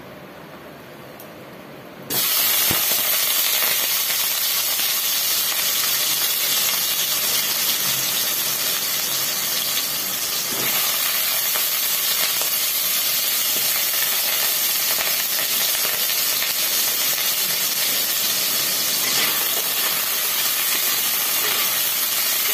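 Raw potato chunks hitting hot oil: a loud frying sizzle starts suddenly about two seconds in and keeps on steadily as the potatoes fry.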